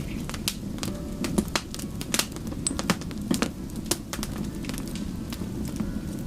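Wood fire burning, with a steady low rumble of flames and many sharp, irregular crackles and pops.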